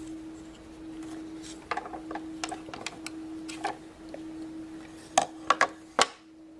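Plastic Play-Doh popsicle mold being pressed and handled: scattered light clicks and taps, then a few sharper clicks near the end. A steady faint hum runs underneath.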